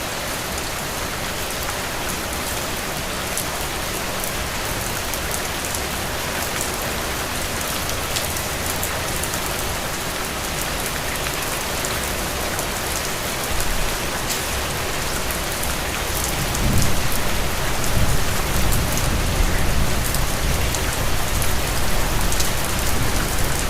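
Steady rain falling, a dense even hiss with fine patter of individual drops. About two-thirds of the way through a low rumble joins in and the sound grows louder.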